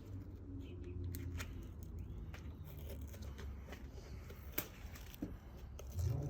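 Light clicks and handling noises of small parts being worked by hand, with one sharper click about four and a half seconds in, over a steady low hum.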